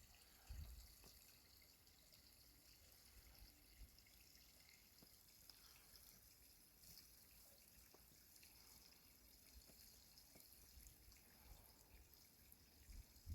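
Near silence: a faint steady hiss, with a soft low thump about half a second in and a few faint scattered ticks.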